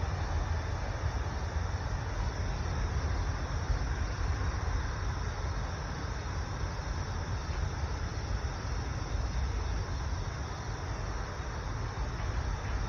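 Freight train cars rolling away in the distance as a steady low rumble, with insects chirping.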